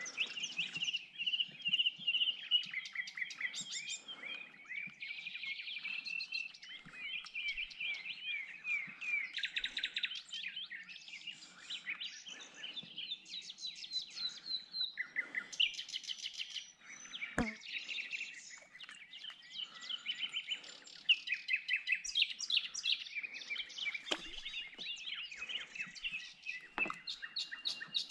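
Several songbirds singing at once, a dense chorus of rapid chirps and trills, with one sharp click about two-thirds of the way through.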